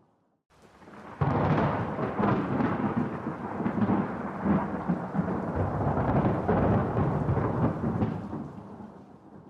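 A thunderclap breaks in suddenly about a second in and rolls on as a long, crackling rumble that slowly fades away near the end.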